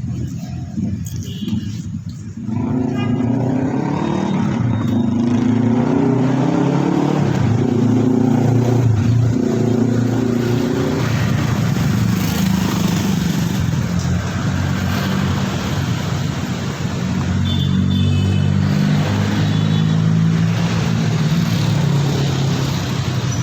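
A motor vehicle engine running under way, its pitch stepping up and down as it accelerates and changes speed.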